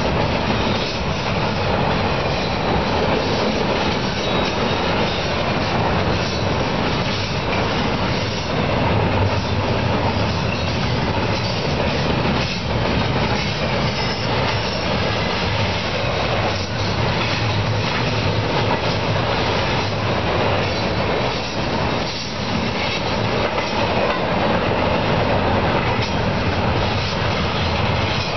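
Double-stack intermodal freight train's well cars rolling past: a steady rumble of steel wheels on rail, with scattered clacks as wheels cross rail joints.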